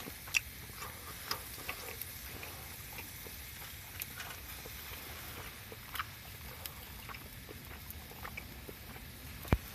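Wood fire crackling in a camp fireplace: irregular sharp pops and ticks over a low steady hiss, with one loud pop near the end.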